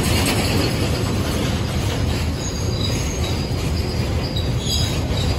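Freight train of open-top BOXNS box wagons rolling past close by: a steady rumble of steel wheels on the rails, with several short, high wheel squeals in the second half.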